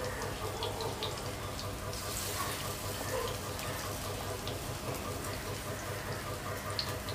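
Moringa-leaf and gram-flour fritters sizzling in hot oil in a frying pan: a steady hiss with scattered small pops and crackles, over a low steady hum.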